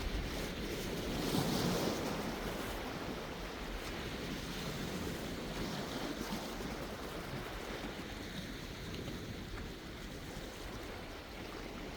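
Sea waves breaking and washing ashore, with one louder surge about one to two seconds in that then slowly eases off.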